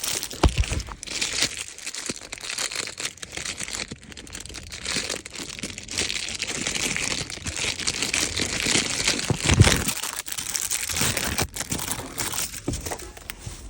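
Takeaway food packaging crinkling and rustling as it is handled, with a couple of dull knocks, the strongest a little after the middle.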